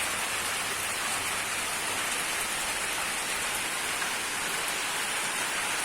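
Heavy rain pouring down steadily, a dense even hiss of a sudden downpour.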